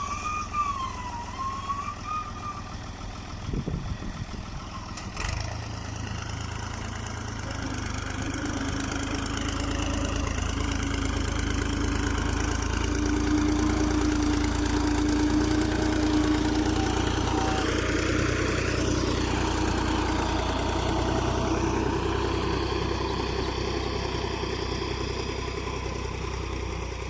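Fiat 480 tractor's diesel engine working under load, pulling a nine-tine cultivator through the soil. Its steady running grows louder towards the middle and slowly fades near the end as it moves past.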